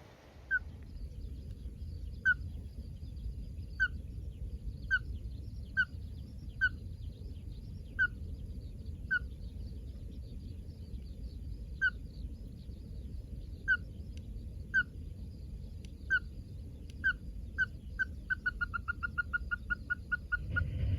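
Ruddy-crowned crake calling: a series of single sharp 'kyo' notes about a second apart that speed up into a rapid run near the end, the species' typical accelerating call. A steady low rumble runs underneath.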